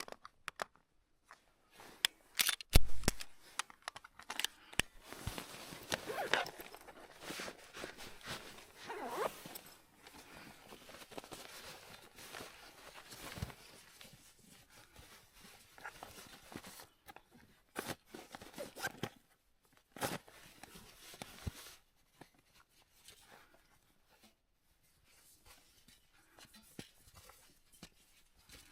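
Irregular rustling, scraping and crunching with scattered sharp clicks, and one louder thump about three seconds in.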